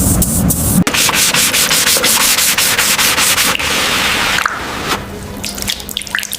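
Sanding by hand: rapid rubbing strokes, one after another, for about four seconds, then lighter, scattered scrapes.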